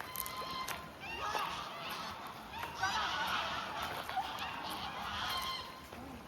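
Geese honking, many short overlapping calls from several birds, busiest in the middle of the stretch and thinning out near the end.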